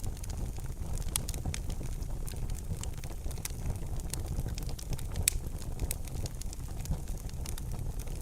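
Wood fire burning in a fireplace: a steady low rumble of the flames with sharp crackles and pops at irregular intervals, one louder pop about five seconds in.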